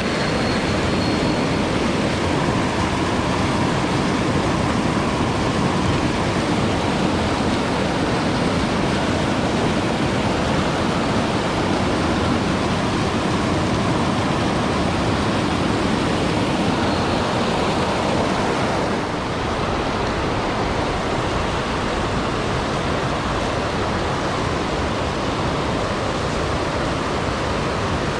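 Mountain stream rushing steadily over rocks, a constant wash of water noise that drops a little in level about two-thirds of the way in.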